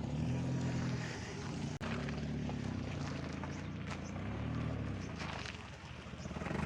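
A vehicle engine running with a low hum that rises and falls several times.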